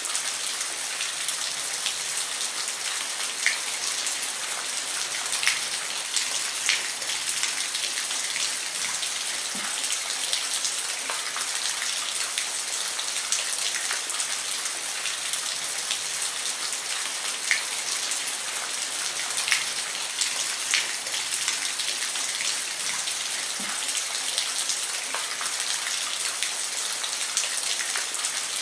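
Steady rain falling on a roof: a constant high hiss with individual drops ticking sharply here and there.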